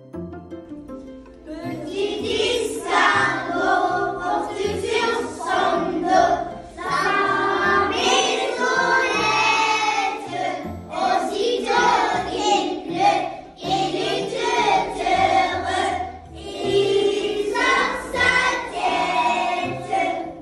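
A group of children singing a French nursery rhyme together over a light instrumental backing track. The song runs in short phrases with brief breaks between them.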